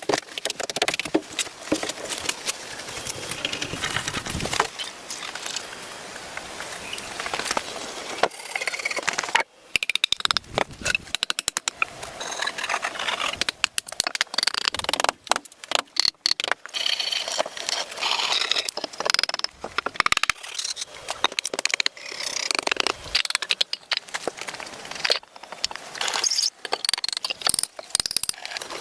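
Wood being worked by hand: irregular scraping with many small clicks and knocks, and a brief pause about nine seconds in.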